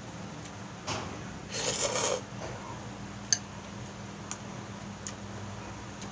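Eating sounds from a bowl of instant noodles: a short rough slurp or rustle about two seconds in, with a few light clicks of utensils, over a steady low hum.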